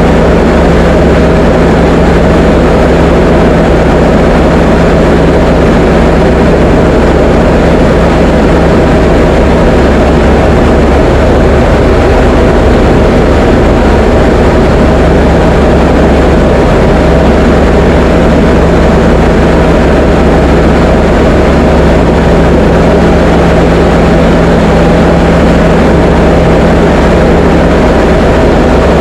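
Diamond DA20 light aircraft's piston engine and propeller droning steadily in flight, a loud, even drone with a low hum that does not change.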